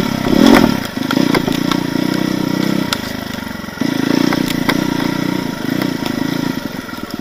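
Off-road motorcycle engine running at low, steady revs over rough forest ground, easing off about three seconds in and picking up again just before four seconds, with scattered knocks and clatter.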